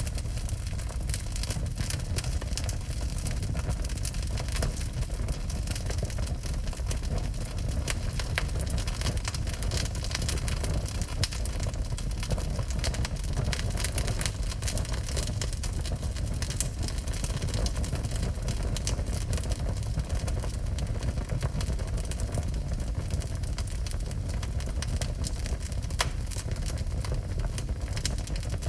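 Wood burning in a fireplace: a steady low rumble with frequent crackles and small pops, one sharper pop near the end.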